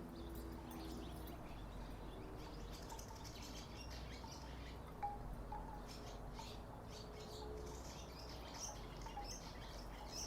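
Wooden tiki wind chimes knocking together in the breeze, sounding several overlapping pitched tones, with a sharper knock about five seconds in.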